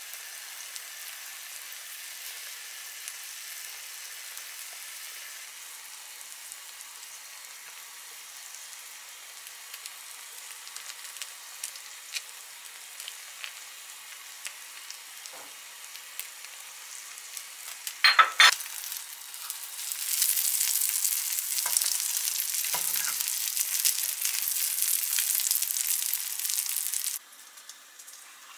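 Food sizzling in a hot frying pan with small crackles and pops. About two-thirds of the way through there is a sharp clatter, then the sizzle grows much louder for several seconds before cutting off suddenly near the end.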